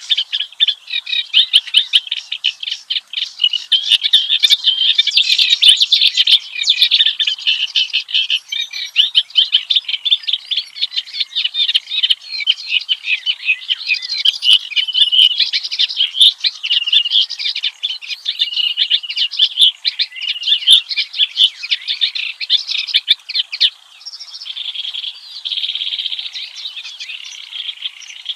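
Kerak basi (reed warbler) singing a rapid, harsh, chattering song of varied notes, continuous and loud, turning softer and buzzier for the last few seconds.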